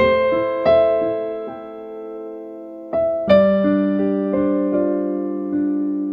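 Slow instrumental keyboard music: held chords struck and left to ring, changing every second or so, with the loudest chord about three seconds in.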